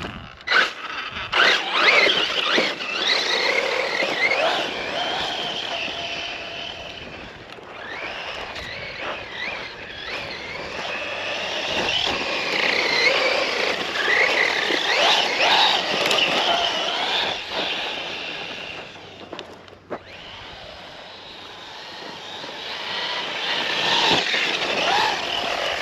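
Brushless electric motor of a Losi off-road RC truck whining as it is driven hard. The pitch rises and falls with the throttle, and the running gear adds rattle and scrape. It eases off briefly about twenty seconds in, then speeds up again.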